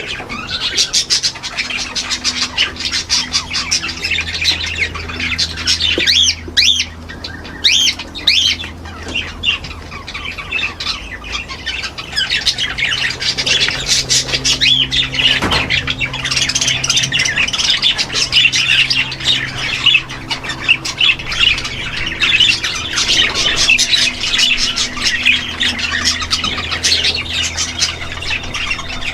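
A crowd of aviary birds squawking and chattering at once, many short high calls overlapping without a break, over a faint steady low hum.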